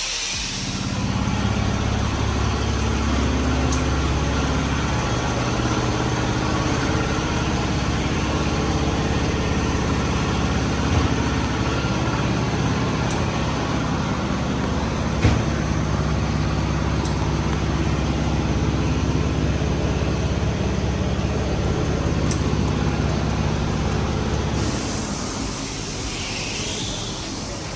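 A vehicle engine running steadily with a low rumble, broken by a couple of short knocks, then cutting off near the end.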